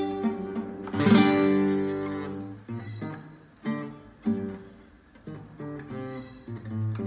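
Instrumental music on acoustic guitar: a strummed chord about a second in, then single plucked notes.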